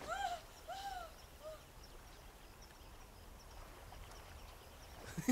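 A bird gives three short calls, each rising and falling in pitch, about two-thirds of a second apart and each fainter than the last. Then only faint, high twittering of small birds is heard.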